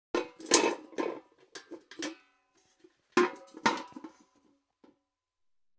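Steel bucket clanking: a cluster of knocks and rattles over the first two seconds, then two more clanks about three seconds in, each leaving a short metallic ring.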